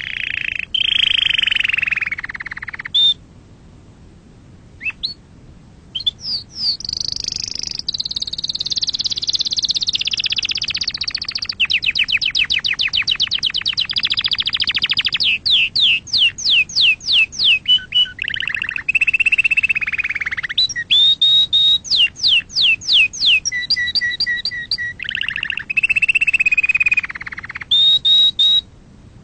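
Canary singing: a long, loud song of fast trills and rapidly repeated whistled notes, with steady held tones between them and a short pause a few seconds in.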